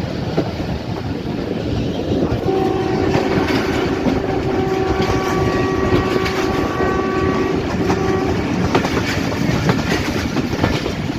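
A train's horn sounds one long blast of about five seconds, then a short one, over the steady rumble and clickety-clack of the coaches running on the rails. The horn is the locomotive's, an HBU-20 diesel-electric.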